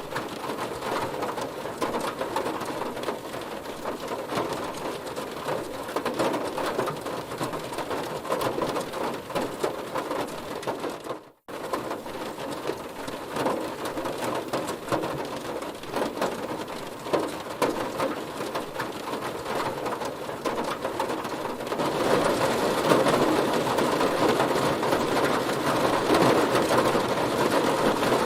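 Heavy rain hitting a car, a dense steady patter of drops on the body. It cuts out for an instant about eleven seconds in, then comes back and grows louder about twenty-two seconds in.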